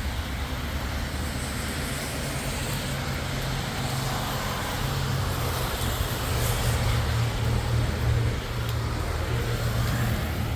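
Road traffic on a wet, rainy street: a steady low engine hum under an even hiss.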